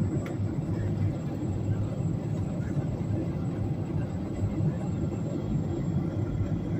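Steady low rumble of engine and airflow noise inside a passenger airliner's cabin on the landing approach.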